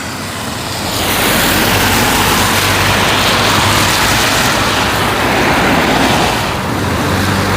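A vehicle passing on the road: tyre and engine noise swells about a second in and eases off near the end, over a steady low engine hum.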